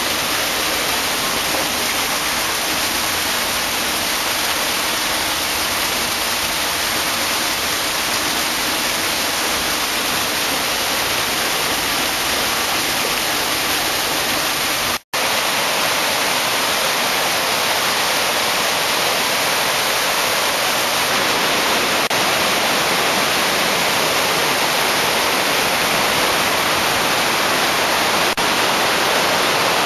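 Waterfall pouring: a steady, loud rush of water, broken by a brief dropout about halfway through.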